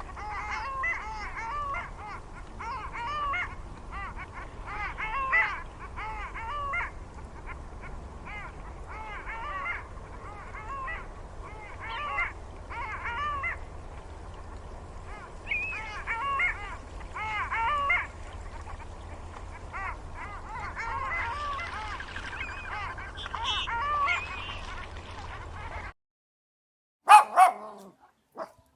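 A flock of waterfowl calling, many short calls overlapping in clusters. The calling cuts off abruptly near the end, followed by a few short sharp calls.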